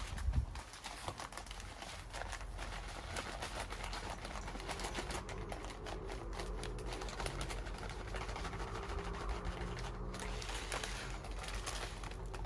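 Small hard bits of bird food (seed or nuts) rattling and clicking as they are poured and handled, in a quick irregular patter, with a thump about a quarter second in.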